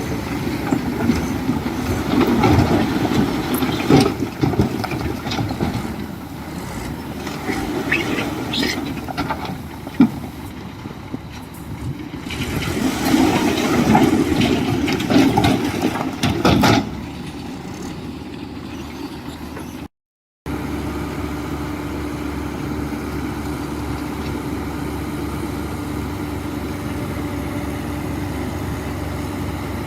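Heavy diesel construction machinery running, its engine working with knocks and clanks through the first half. After a brief cut, a steady engine drone with a held tone.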